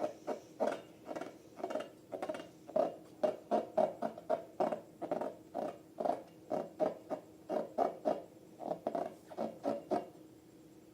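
Homemade slime being squeezed and kneaded by hand, a rapid run of wet squelches and squishes, two or three a second, stopping about ten seconds in.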